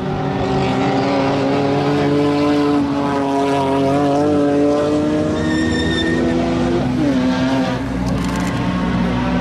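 Sport compact race car engine pulling hard under acceleration, its pitch climbing steadily, then dropping sharply about seven seconds in as the revs fall, then building again. A brief high squeal sounds about six seconds in.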